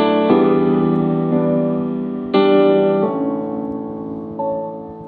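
Instrumental backing music of a pop ballad with no vocal: keyboard chords struck about every two seconds, three in all, each ringing and fading away.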